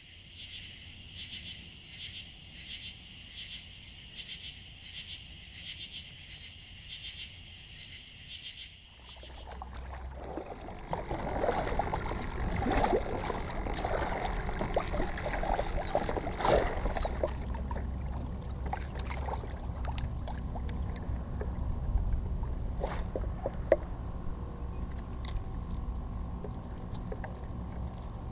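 A high, rhythmic pulsing, about two pulses a second, stops abruptly about nine seconds in. It gives way to water sloshing and splashing around a small boat, with scattered knocks and clicks over a low rumble.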